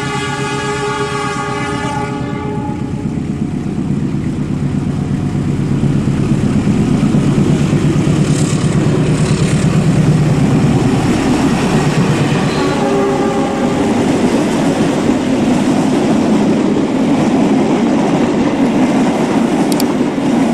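Radio-controlled toy train sounding a horn for about two seconds, then running along the track with a steady rumble and clatter while pulling a long train of wagons.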